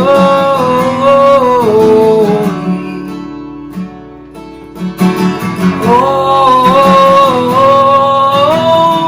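Worship song: strummed acoustic guitar under a singing voice holding long notes that step down in pitch, in two phrases, the second starting about six seconds in.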